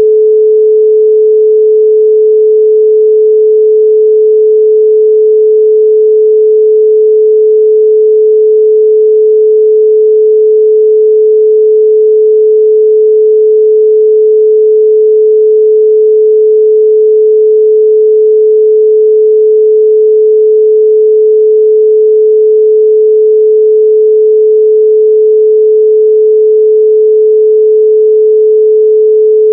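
A loud, steady 432 Hz pure sine tone, held unbroken at one pitch.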